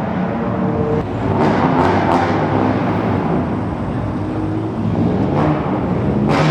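Car engines running, a steady low drone under a broad rush of noise that grows louder about a second in.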